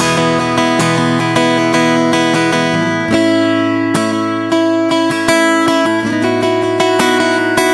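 Acoustic guitar played slowly and softly, plucked and strummed chords ringing out, changing chord about three seconds in and again about six seconds in.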